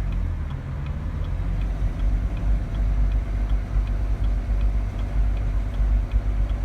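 2016 Chevrolet Camaro's 3.6-litre V6 running with a steady low rumble, from a car that has been revving abnormally on its own. A faint, even ticking runs over it at about three ticks a second.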